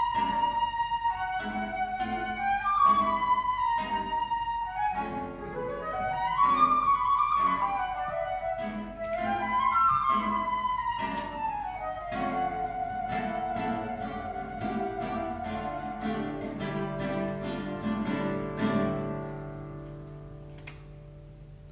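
Flute and guitar duo playing: the flute moves in falling and rising phrases over plucked guitar notes. About halfway through the flute settles on a long held note while the guitar goes on beneath it, and the music dies away near the end.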